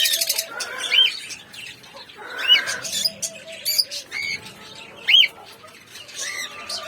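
Small pet parrots (lovebirds, budgies, cockatiels) chirping: sharp rising-and-falling calls about one, two and a half and five seconds in, with softer chatter between.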